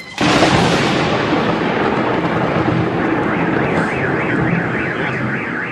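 A sudden close thunderclap that rolls on as a loud, long rumble. About two and a half seconds in, a car alarm starts up, its tone warbling up and down about three times a second.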